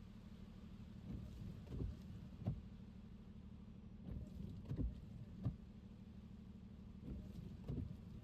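Car driving on wet city streets in the rain: a steady low road and tyre rumble, with soft knocks in groups of three about every three seconds.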